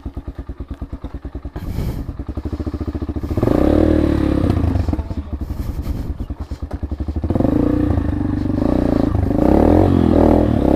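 Motorcycle engine running with a fast, even put-put at low revs, then revving up about three and a half seconds in and again in the second half as the bike rides off.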